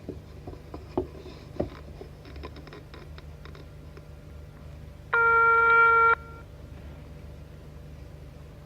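Telephone sounds: a few sharp clicks and knocks, then a run of quick faint clicks, then a single steady electronic tone lasting about a second, over a low steady hum.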